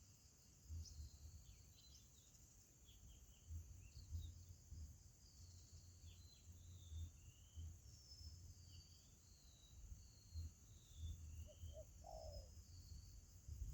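Faint, scattered high chirps and short downslurred twitters of small birds over a low, uneven rumble, with one brief lower call about twelve seconds in.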